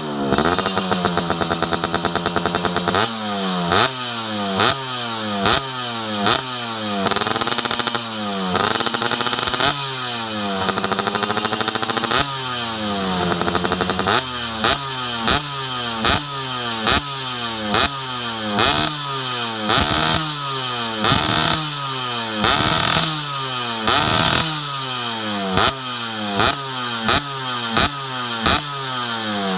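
Yamaha F1ZR two-stroke motorcycle engine with a racing exhaust, revved in repeated quick throttle blips, the pitch shooting up and dropping back each time, the blips coming faster in the second half.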